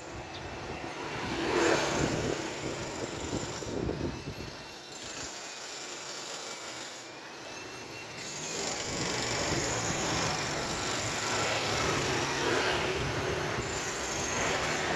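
Engine noise of passing vehicles: a swell about two seconds in and a longer, steadier stretch from about halfway, with a faint high whine rising and falling in between.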